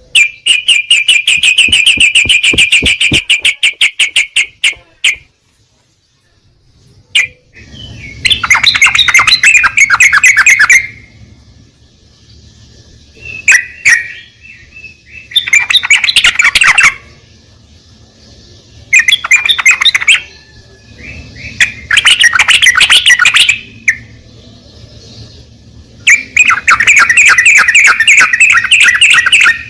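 Yellow-vented bulbul (trucukan) song: a rapid trill of quick repeated notes for about five seconds, then six shorter bursts of fast chattering, each one to three seconds long, with a faint low hum underneath from about seven seconds in.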